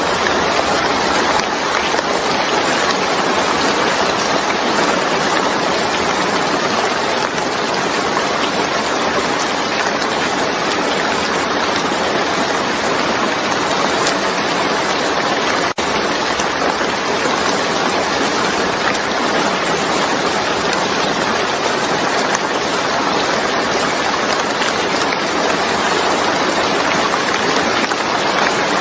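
Steady heavy rain, an even hiss of falling water with no pauses, broken once by a momentary dip about halfway through.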